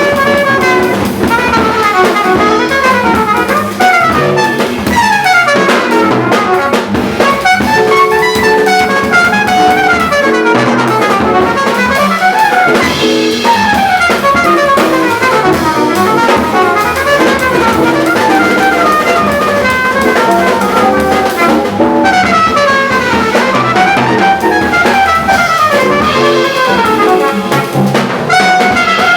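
Up-tempo jazz with fast trumpet runs rising and falling over bass and guitar, and a drum kit with Zildjian ride and hi-hat cymbals played along with it.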